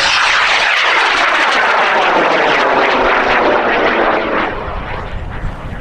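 High-power rocket motor firing at liftoff: a loud, steady rushing noise that starts fading about four and a half seconds in as the rocket climbs away.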